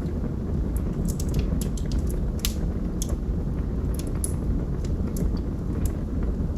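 Log fire crackling: a steady low rumble of the burning with frequent sharp pops and snaps from the wood, one louder pop about two and a half seconds in.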